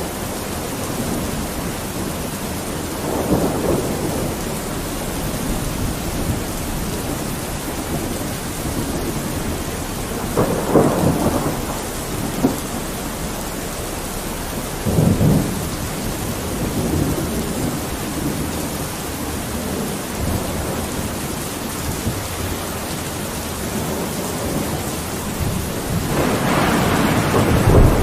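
Steady rain falling on a window, with rolls of thunder swelling up several times; the last one builds louder near the end.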